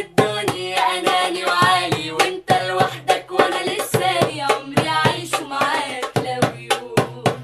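Women's voices singing a melody together, accompanied by a rhythm beaten out by hand, about two or three strokes a second.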